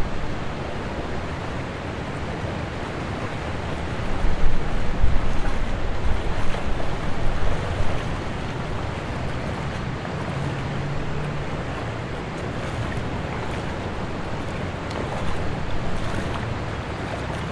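Steady rushing of a fast, shallow river current, with wind buffeting the microphone in uneven low gusts for a few seconds about a quarter of the way in.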